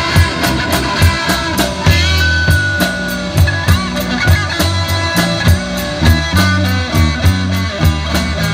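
Live rock band playing: electric guitar and electric bass over a steady drum-kit beat, with a long held high note about two seconds in.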